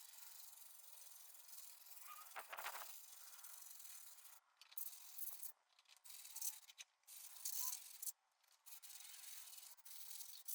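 Abrasive rubbing of a hand honing block sanding a concrete surface, steady at first and then in uneven strokes from about four and a half seconds in, with a dull thump about two and a half seconds in.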